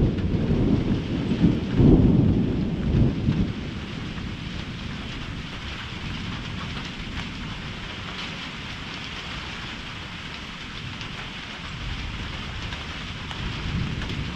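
Thunder rumbling loudly for the first three or four seconds, over a steady hiss of heavy rain that carries on after the rumble fades.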